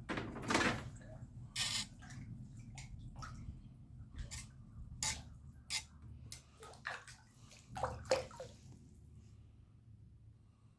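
Water splashing and dripping in short, irregular bursts over a low, steady rumble; the splashes thin out after about eight seconds.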